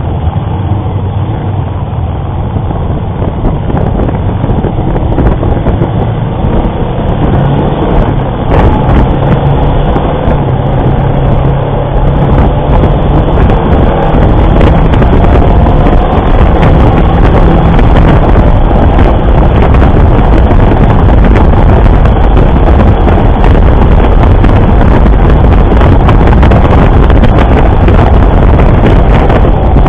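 A motorcycle riding at speed: the engine running under heavy wind noise on a bike-mounted camera's microphone, growing louder about halfway through.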